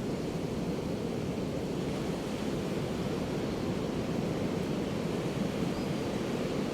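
Ocean surf washing onto a beach: a steady low rush of waves with no single breaker standing out.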